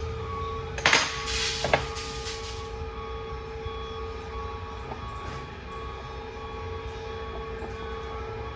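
Steady workshop hum with a metallic clank about a second in and a sharp metal click shortly after, from heavy-truck transmission parts being handled during assembly.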